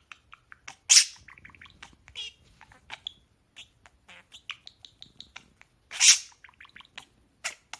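Pet parakeets chattering: a string of short chirps, clicks and warbles, with two loud, sharp calls about a second in and about six seconds in.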